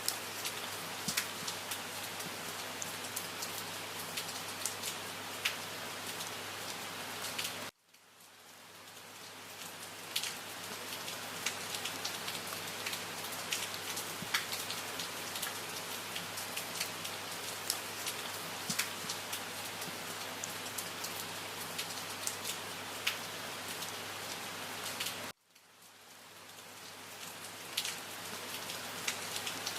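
Steady rain falling, with distinct individual drops striking a surface. Twice it cuts out suddenly and fades back in over a couple of seconds, where the recording loops.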